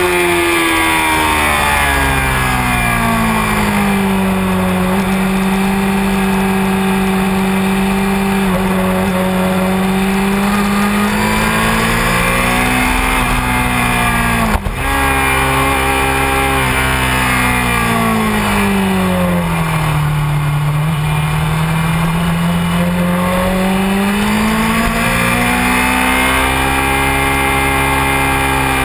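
Honda CBR600F4i inline-four sport-bike engine at speed on a race track. The engine note falls over the first few seconds, holds, and climbs slightly. A sharp click comes about 15 s in, then the note drops again to its lowest around 20 s in and climbs steadily near the end as the bike accelerates.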